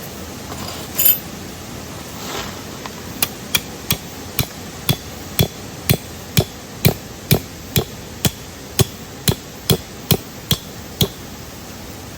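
Hammering, about two blows a second, each with a short metallic ring, typical of a tent stake being driven into the ground while pitching a tarp. A single sharp knock comes about a second in.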